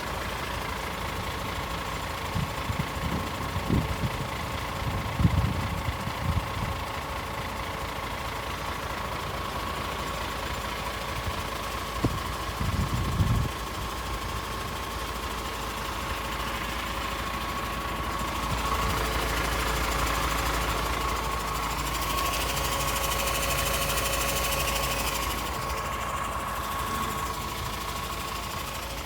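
Paccar 450 bhp Euro 6 diesel engine of a DAF CF tractor unit idling steadily, with a few short low knocks in the first half. In the second half it grows louder for several seconds, with a hiss on top.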